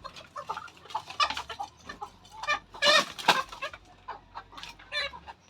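Chickens clucking in a run of short calls, the loudest pair about three seconds in.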